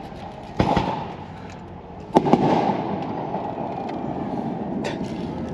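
Consumer fireworks going off: two sharp bangs about a second and a half apart, the second followed by a longer hiss, and a fainter crack near the end.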